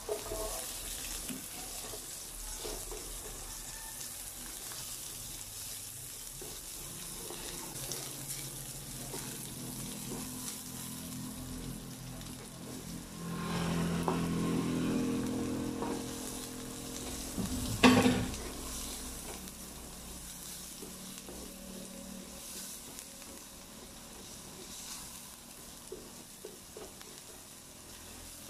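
Chopped onion, ginger and garlic sizzling in oil in a wok while being stirred with a spoon. The sizzle grows louder for a few seconds about halfway through, when more minced garlic is scraped into the pan, and a single sharp knock comes a few seconds later.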